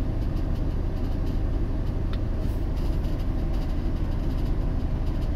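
Ford Transit refrigerator van running at idle with its refrigeration unit switched on: a steady low hum with no change in pitch or level.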